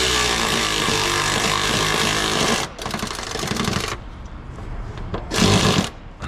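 A power tool's motor running loudly and steadily, cutting off suddenly about two and a half seconds in, followed by light clatter and a second short loud burst a little after five seconds.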